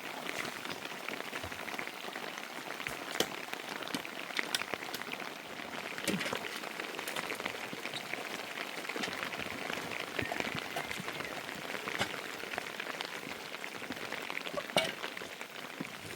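Steady rain falling, with many individual drops striking close by as short sharp ticks; one tick a little before the end is louder than the rest.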